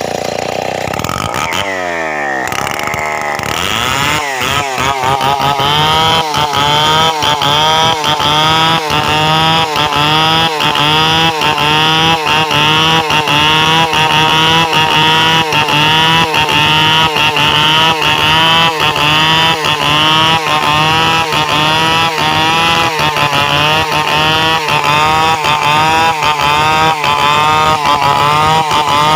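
Stihl 070 chainsaw's big two-stroke engine revving up over the first few seconds, then held at full throttle with a regular wavering in its pitch.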